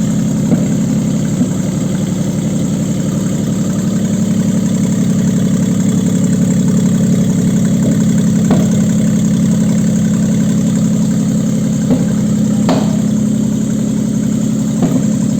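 Toyota 2GR-FSE 3.5-litre V6 engine idling steadily on an engine test stand, with a few faint clicks over the even running.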